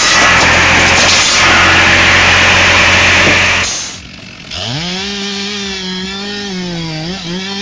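Loud noise of a saw cutting through wood for about four seconds, then it stops. About half a second later a two-stroke chainsaw revs up and runs at high speed, dipping slightly now and then.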